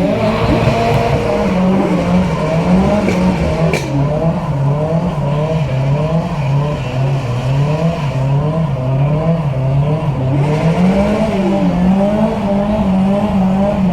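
Car engine held high through a burnout, its revs rising and falling over and over while the spinning tyres squeal. There is a sharp crack about four seconds in.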